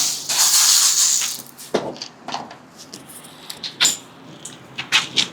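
A hiss lasting about a second and a half, then scattered metallic clinks and knocks of tools and exhaust parts being handled.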